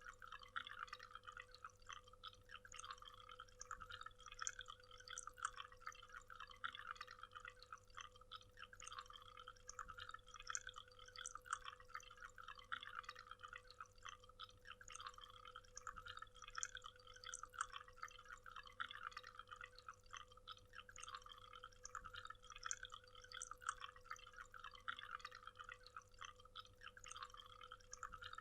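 Faint, steady splashing of a waterfall, with no let-up, over a thin steady hum.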